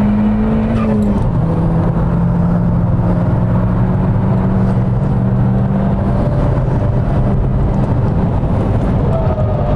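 In-cabin sound of a Mk II SEAT Leon Cupra's turbocharged four-cylinder engine running hard at speed on track, with steady road and tyre noise. Its note drops in pitch at a gear change about a second in, then holds steady.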